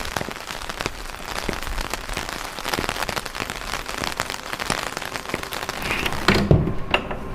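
Steady rain falling, with a dense patter of separate drops. Near the end the patter thins and a louder low-pitched sound comes in.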